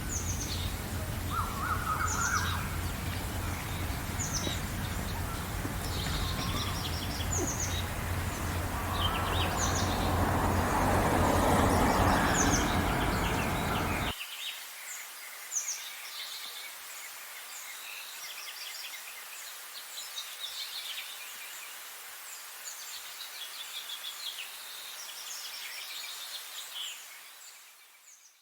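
A chorus of small birds chirping and singing in many short, high calls over a rumbling background noise. The rumble swells, then cuts off abruptly about halfway through, leaving the birdsong alone until it fades out at the end.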